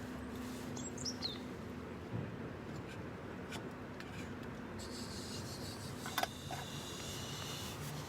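Outdoor ambience with a bird's quick falling chirps about a second in. A few sharp clicks and a high buzzing trill follow in the second half, over a steady background hiss.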